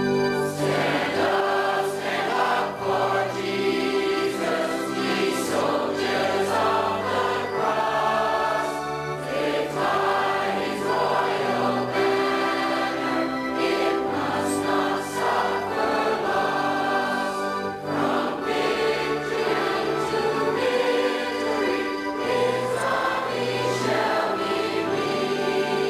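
A choir singing a slow hymn in long held chords over a low sustained bass line.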